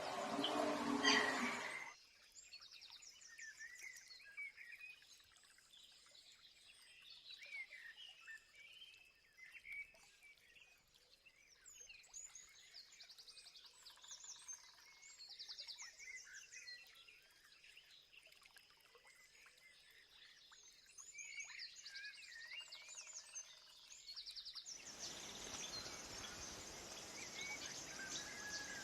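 Several small birds chirping and calling, with short fast trills among the chirps, over a faint background. About two seconds in, a louder noisy stretch gives way to the birds. Near the end a steady hiss of noise rises under them.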